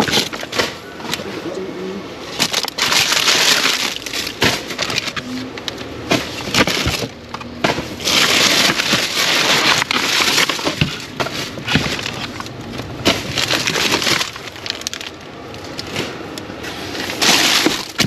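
Plastic bags and food packaging rustling and crinkling in irregular swells, with many sharp crackles and clicks, as items are rummaged through in a dumpster.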